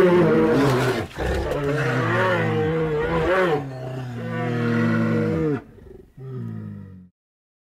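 An animal's low, drawn-out calls with a wavering pitch: one long call of several seconds, broken briefly about a second in, then a shorter call near the end.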